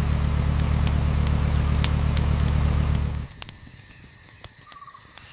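Low, steady engine drone that cuts off abruptly about three seconds in, leaving faint scattered clicks and crackles.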